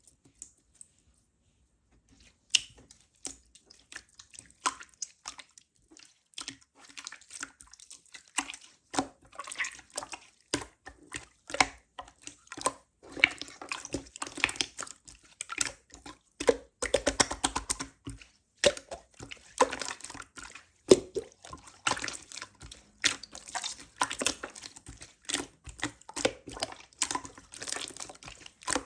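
Slime being squished and worked by hand, making a dense, irregular run of wet clicks and small pops that starts about two seconds in.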